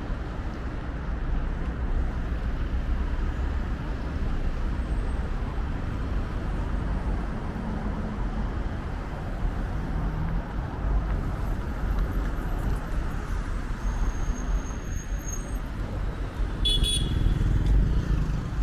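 Steady road traffic noise, a continuous low rumble of passing cars, with a brief high-pitched squeal near the end.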